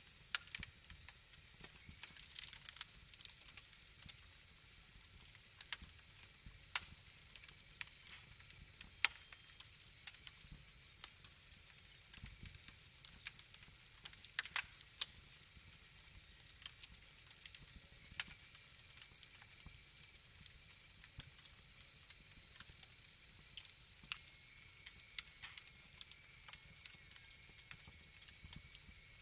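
Wood fire crackling faintly: scattered sharp pops and snaps at an uneven pace over a low hiss.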